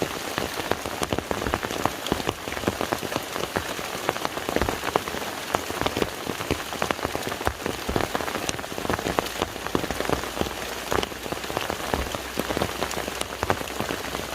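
Rain falling steadily onto the surface of a lake, a dense mass of individual drop splashes.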